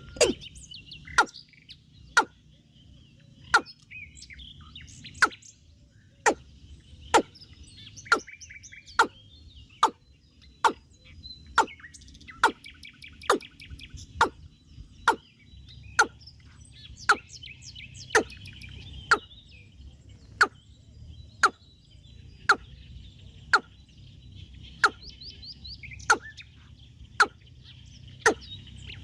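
Small birds chirping and trilling, with a sharp knock or tap about once a second throughout, the knocks louder than the birdsong.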